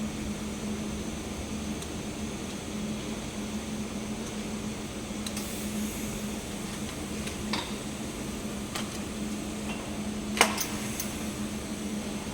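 Steady hum and hiss of a TIG welding set during a 6G pipe weld, with a few sharp clicks; the loudest click comes about ten seconds in.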